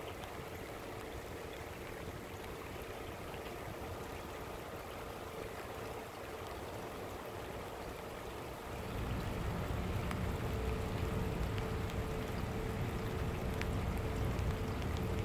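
Steady rain falling, an even hiss of drops, with a low rumble that grows louder a little past halfway. A faint steady hum runs underneath.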